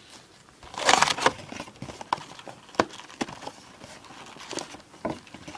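Hands unwrapping and handling a trading-card hobby box and its plastic wrap: a short crinkling rustle about a second in, then scattered light clicks and taps.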